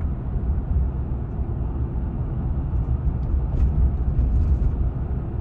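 2013 Chevrolet Silverado's 5.3-litre V8 and road noise while driving: a steady low rumble. The engine is running smoothly with no misfire, after a broken spark plug was replaced.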